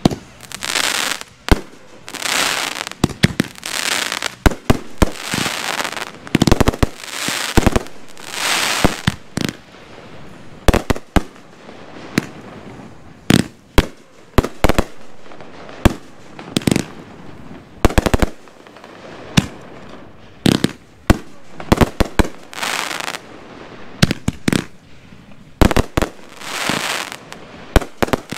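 Consumer fireworks going off in quick succession: many sharp bangs at uneven intervals, mixed with longer hissing bursts.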